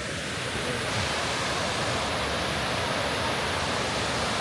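Steady rush of a waterfall or cascading creek water, an even noise across all pitches, a little louder from about a second in.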